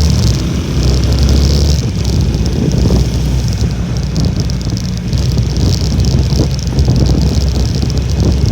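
Honda Little Cub's small single-cylinder four-stroke engine running on the move, with strong wind buffeting the microphone in a low, continuous rumble.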